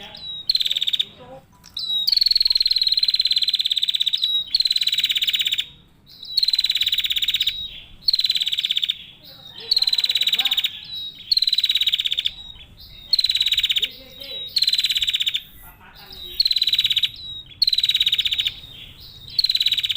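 Female prinia (prenjak) calling: a long series of loud, buzzy rattling trills, each about a second long and a rapid run of notes with a thin high tone on top, repeated every one to two seconds.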